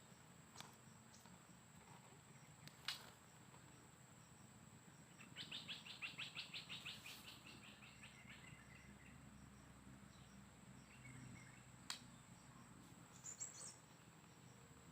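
Faint songbird calls: a fast trill of about fifteen notes a little after the middle, and a few short high chirps near the end. A steady thin high whine, like an insect, runs underneath, and there are two sharp clicks.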